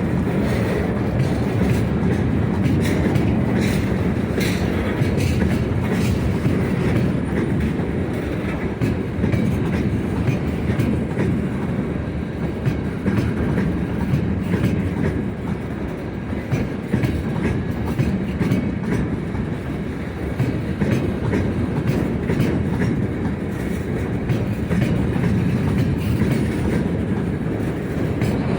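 Freight train wagons rolling past, with a steady rumble and wheels clicking over the rail joints.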